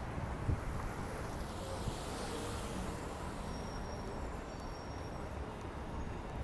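City street traffic noise: a steady low rumble, swelling briefly about two seconds in as a vehicle passes, with a single short knock near the start.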